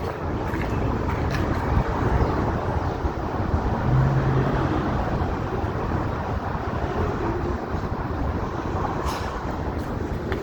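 Road traffic on a city street: vehicles passing close by with a steady rush of engine and tyre noise, loudest a few seconds in.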